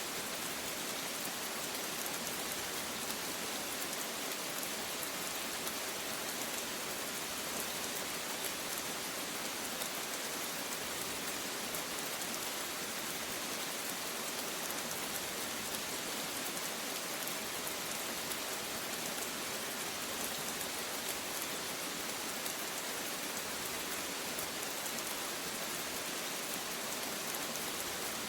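Steady rain falling on a surface, an even hiss of many fine drops that holds at the same level throughout.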